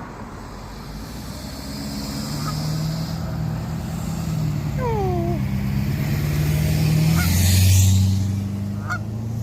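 A motor vehicle's engine running slowly with a steady hum that shifts lower and louder about seven seconds in, along with a brief hiss. A short falling squeak comes about five seconds in.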